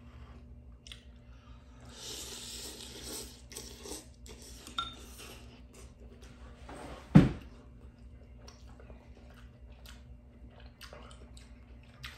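Mukbang eating noises: chopsticks clicking against a bowl, with a short ringing clink about five seconds in and a loud, heavy thump about seven seconds in, probably the bowl or utensils set down on the table. Between them there is a hissing stretch of about a second that fits noodles being slurped, and faint chewing clicks.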